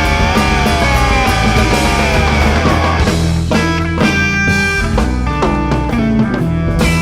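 Blues-rock band playing live, an instrumental passage led by electric guitar over bass and drums. A long sustained guitar note slides slowly downward over the first three seconds, then gives way to short, separate notes.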